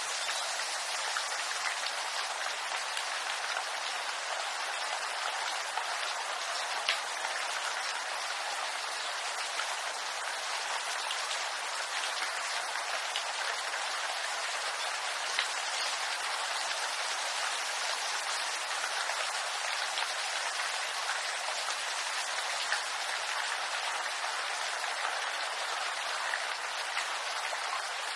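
Steady rain falling on bamboo leaves, an even patter with a few sharper drop ticks now and then.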